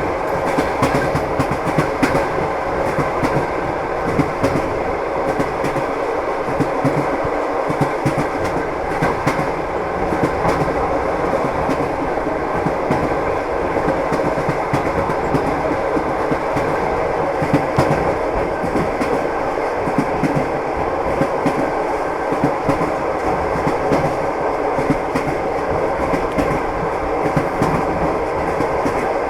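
Train wheels clattering over rail joints, the clickety-clack of railway carriages in motion over a steady rolling rumble.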